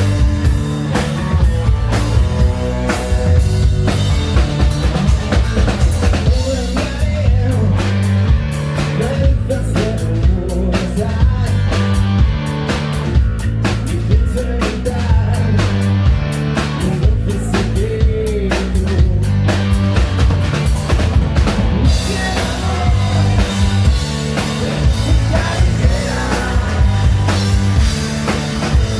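Melodic hard rock band playing live, the drum kit prominent with steady kick and snare hits over bass and electric guitar.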